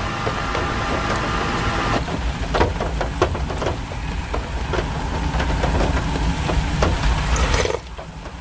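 Heavy rain falling, with large drops knocking irregularly on a hard surface over a low rumble. The sound changes abruptly about two seconds in and again near the end.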